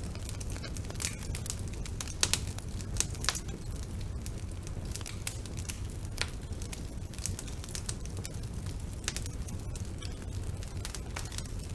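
Wood fire crackling in a fireplace: irregular sharp pops and snaps over a low steady rumble, with a couple of louder pops about two and three seconds in.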